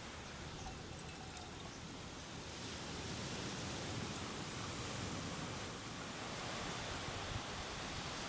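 Steady rushing noise of a strong sea breeze, slightly louder from about two and a half seconds in.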